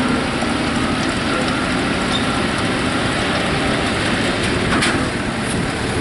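Farm tractor engine running hard under load, a loud, steady, dense noise, with a short sharp clatter about five seconds in.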